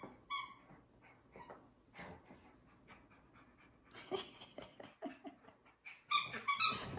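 Yorkshire terrier puppy whimpering and panting, with short squeaks of a squeaky toy twice at the start and a run of loud squeaks near the end.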